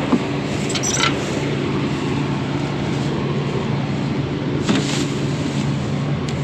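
Combine harvester running steadily while cutting wheat: an even engine and machine hum, with brief crackles or rattles about a second in and again near five seconds.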